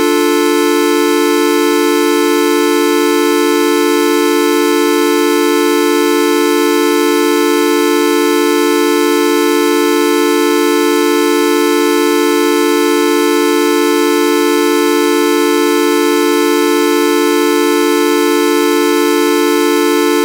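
The "Videoup V1.2" sound effect: a loud, steady, horn-like tone with many overtones, held without any change in pitch or level.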